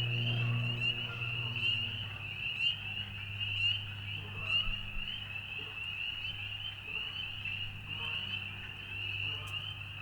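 A dense chorus of frogs calling, a continuous high-pitched trilling of many overlapping calls, with a low steady hum underneath.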